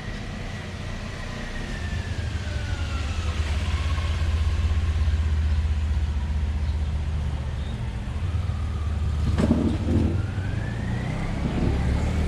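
Steady low vehicle rumble with a faint wailing tone that slowly falls, then rises again near the end, and a single knock about nine and a half seconds in.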